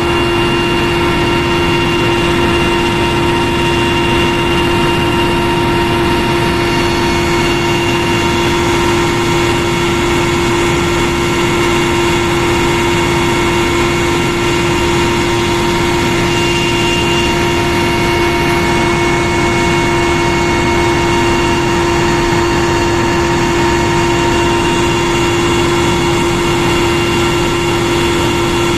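Croatian military helicopter in cruising flight: steady engine and rotor noise, a constant whine of several fixed pitches over a dense rushing noise.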